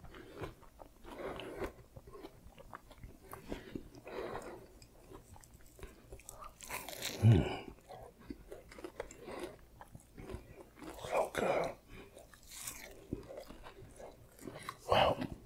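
Close-miked chewing with the mouth closed: wet smacking and small crunches of a mouthful of food, with a short low hummed 'mmm' about seven seconds in.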